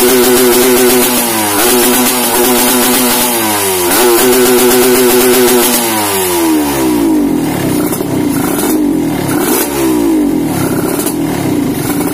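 Yamaha RX-King's single-cylinder two-stroke engine, fitted with a lightweight 'kimcil' magneto and a rev-limit CDI, revved and held at high revs with two brief dips. About six seconds in it drops back to a lumpy idle, with short blips of throttle.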